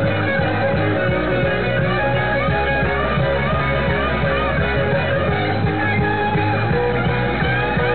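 Rock music with a lead guitar playing wavering, bent notes over a steady band.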